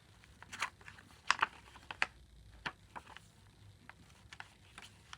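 Card and paper pages of a handmade junk journal being handled and turned: a scattered series of soft rustles and light clicks.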